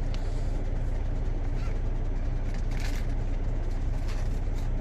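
Truck engine idling: a steady low rumble. A few faint rustles and clicks sound over it, the clearest about three seconds in.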